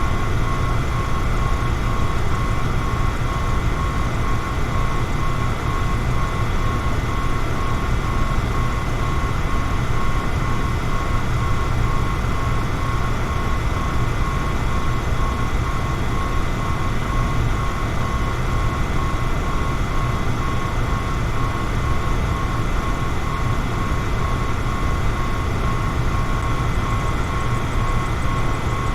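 Electric fan running steadily: an even whoosh of moving air with a low rumble and a steady whine from the motor.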